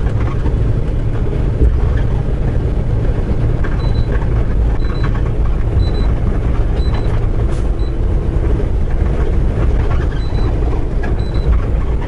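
Semi-truck engine and road noise drone steadily inside the cab. Short high dashboard beeps sound about once a second from about a third of the way in, pause, and start again near the end.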